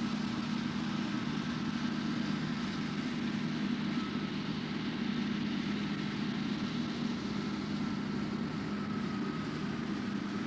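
An engine running steadily at a constant speed, with a faint high whine above it and no revving.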